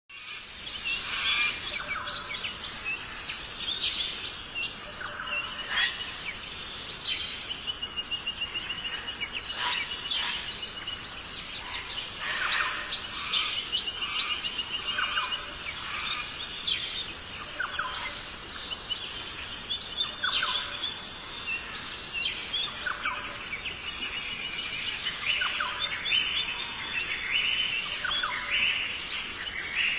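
Several birds singing and calling, overlapping chirps and quick trills, over a steady high hiss.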